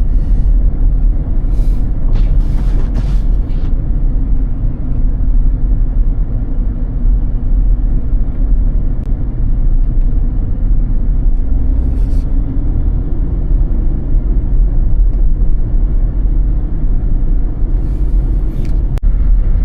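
Steady low rumble of a car driving on snowy roads: tyre and engine noise, with a few brief hissing sounds about two seconds in, midway and near the end.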